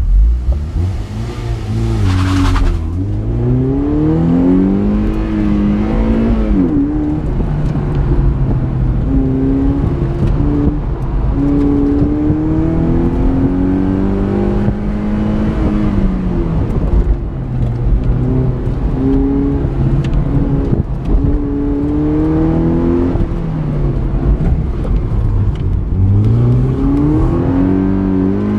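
Mazda MX-5's four-cylinder engine during a timed slalom run, heard from inside the open-top cockpit. It pulls away with a rushing hiss over the first couple of seconds, then revs climb and fall back again and again as the driver accelerates, shifts and brakes between the cones.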